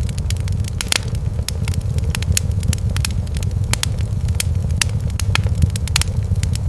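Wood fire in a fireplace crackling: frequent irregular sharp pops and snaps over a steady low rumble.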